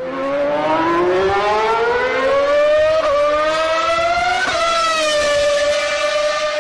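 A dog howling: one long, drawn-out howl that rises slowly in pitch, wavers, then levels off, with a second, lower howling voice alongside.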